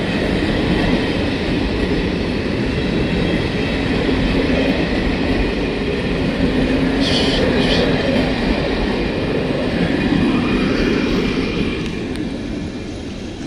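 ONCF passenger train's coaches rolling past close by as it comes into the station: a steady rumble of wheels on the rails. Two short high-pitched sounds come about seven seconds in, and the sound eases off near the end as the last coaches move away.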